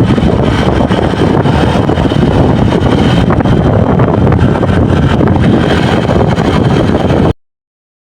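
Heavy wind rumble buffeting the microphone over the noise of a moving vehicle, steady, then cutting off abruptly about seven seconds in.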